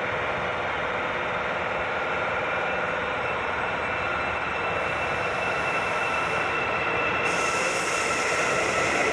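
Metro train running on the track, a steady rolling rumble with a high whine held on several steady tones, getting slightly louder toward the end. A high hiss comes in twice in the second half.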